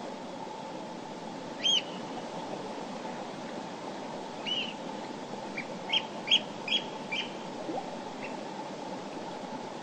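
A mountain river running with a steady rushing sound, over which a bird calls: a single chirp about two seconds in, another a little before the middle, then a quick run of about five short notes.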